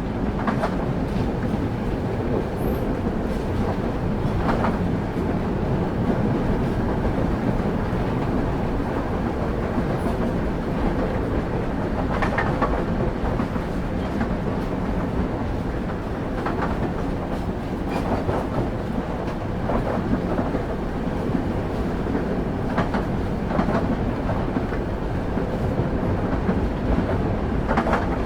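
Railway carriage wheels running on the track, heard on board: a steady low rumble with clicks from the rail joints every few seconds, irregularly spaced.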